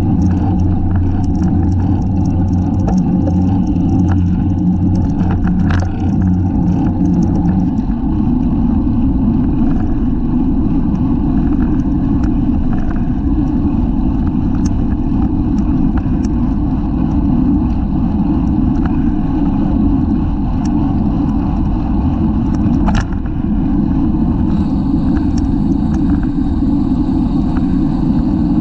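Wind and road noise rumbling steadily on a bicycle-mounted camera's microphone at racing speed, with scattered small clicks and one sharper click about 23 seconds in.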